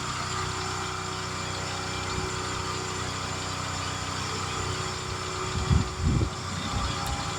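An engine running steadily at idle, with a couple of low thumps about six seconds in.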